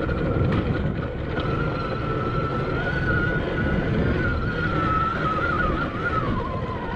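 Admitjet Armor electric dirt bike's motor whining as it rides, the pitch holding steady, wavering, then dropping near the end as it slows. Wind buffets the helmet camera's microphone as a heavy low rumble underneath.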